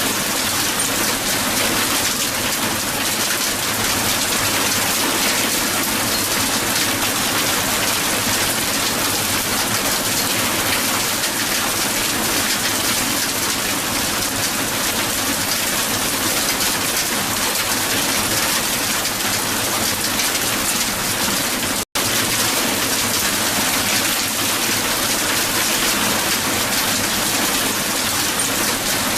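Dense, steady patter of strong hail falling on the ground, with a split-second dropout about three quarters of the way through.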